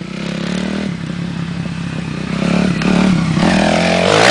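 Off-road vehicle engine revving hard, its pitch rising and falling and getting louder partway through. A rough, noisy surge comes near the end.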